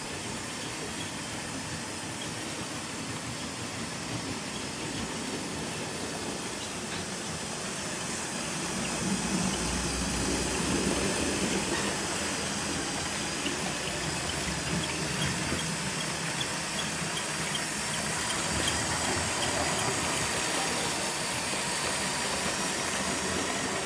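Motorised LEGO train, the Dovregubben locomotive hauling four carriages, running on plastic track. Its electric motor hums and its wheels roll steadily. It grows louder from about 8 to 12 seconds in as it comes closer, with light ticking in the middle.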